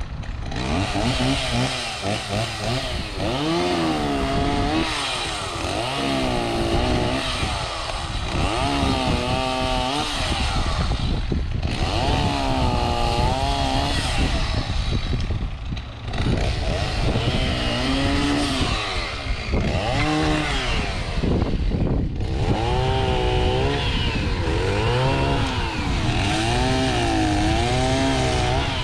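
Chainsaw cutting wood. The engine repeatedly revs up and drops in pitch under load, with a few brief let-offs between cuts.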